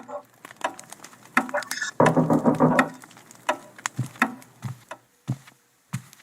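A recorded sound effect: a series of irregular knocks and taps, about a dozen, with a louder rustling, shuffling stretch about two seconds in.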